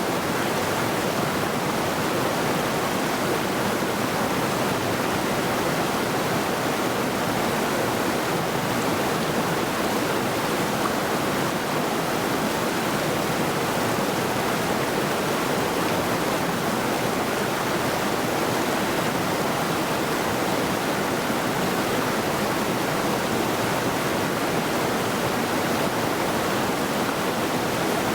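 The Middle Saluda River, a mountain river, rushing steadily over rocks.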